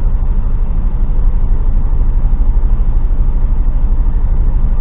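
HGV truck's diesel engine idling while stationary in traffic, a steady low rumble heard from inside the cab.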